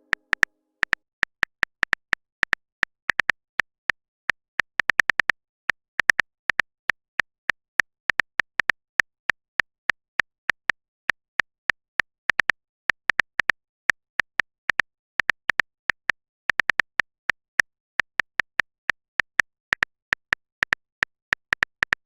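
Phone keyboard typing sound effect: a long, irregular run of short, sharp clicks, several a second.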